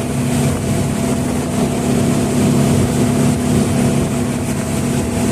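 Speedboat engine running steadily at speed, a constant drone with a rushing hiss of water and wind over it.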